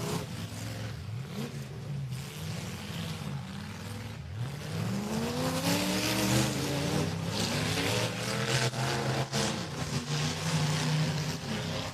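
Demolition derby cars' engines revving, rising and falling in pitch as they accelerate and back off, with a few sharp knocks between them.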